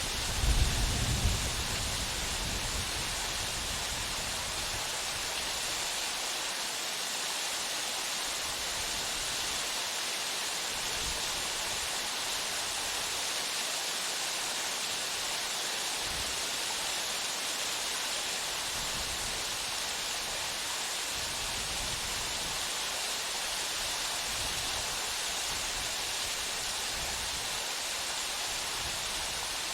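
Waterfall pouring steadily: an even, hissing rush of falling water. A few brief low rumbles sound in the first second or two.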